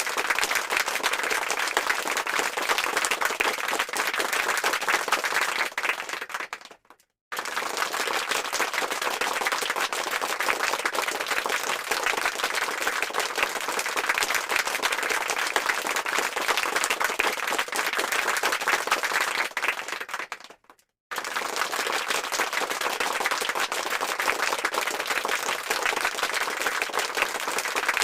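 A crowd applauding: dense, continuous clapping from many hands. It fades out and stops briefly about 7 seconds in and again about 21 seconds in, then starts again abruptly each time, as a looped sound effect.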